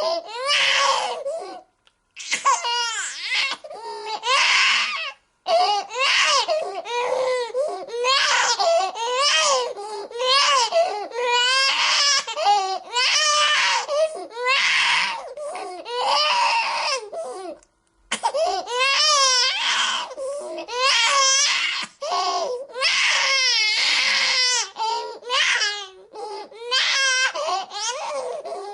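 Infant crying hard in repeated wailing cries of about a second each, the pitch wavering up and down, with brief pauses for breath about 2, 5.5 and 18 seconds in.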